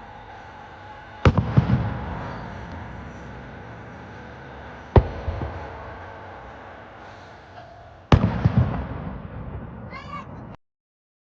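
Aerial fireworks shells bursting three times, a few seconds apart. Each burst is a sharp bang followed by a fading rumble and crackle. Near the end there is a brief high-pitched sound, then the sound cuts off abruptly.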